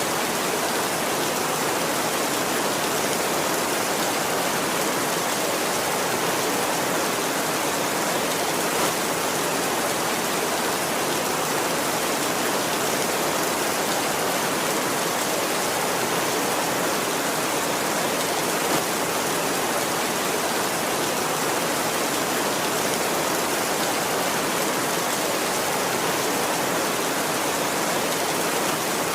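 Heavy rain falling steadily on a tin roof, an even, unbroken hiss of dense drops with no thunder.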